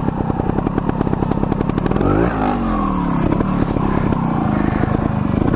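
Two-stroke trials motorcycle engine running, with the revs rising and falling once about two seconds in.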